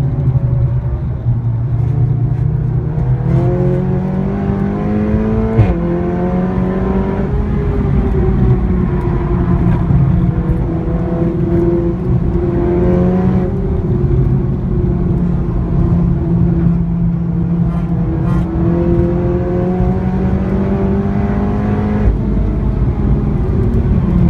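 A Seat Leon Cupra's engine and loud exhaust under hard acceleration. The pitch climbs through the revs and drops sharply at each gear change, with a sharp crack at the first shift about five seconds in. Between the pulls it runs steadier, at slowly falling revs.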